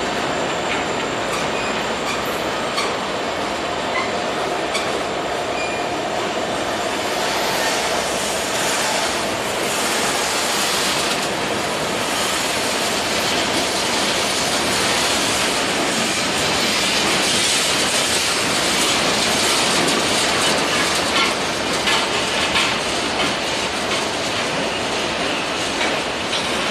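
Freight train cars rolling past, their steel wheels clacking over the rail joints with a steady rumble. A faint high wheel squeal runs through the first half.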